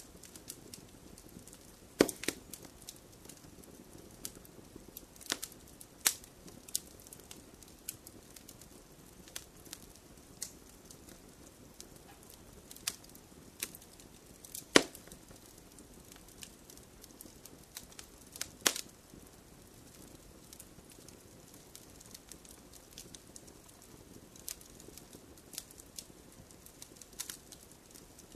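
Fireplace fire crackling: irregular sharp pops and snaps over a soft steady hiss of the flames, with a few louder pops scattered through.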